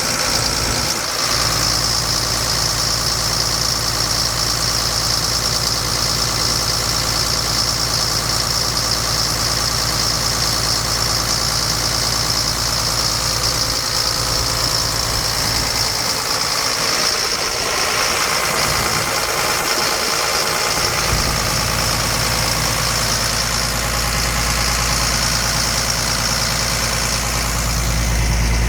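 Engine of a Sullivan Industries D7500 portable air compressor running steadily, with a constant high hiss over it; the low rumble grows somewhat louder near the end.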